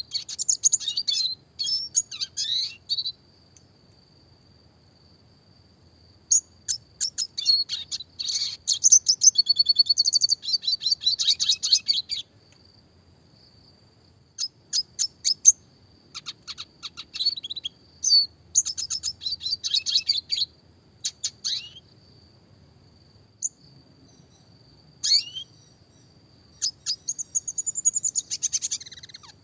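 Red siskin singing in bouts of fast, high twittering trills and rapid repeated notes, each bout a few seconds long, with short pauses between them. A faint steady high tone carries on through the pauses.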